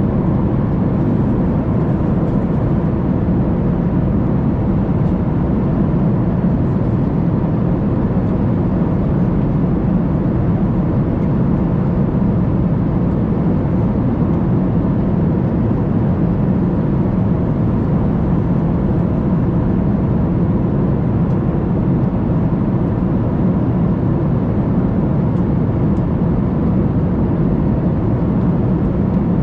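Steady cabin drone of a Boeing 737 MAX 8 in cruise, heard from inside the cabin: engine and airflow noise, deep and even, with a faint steady hum on top.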